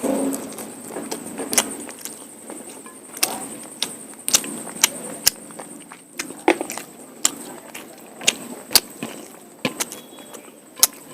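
Close-miked eating of mutton curry with polao rice: chewing and mixing sounds with about a dozen sharp, irregular mouth smacks and clicks.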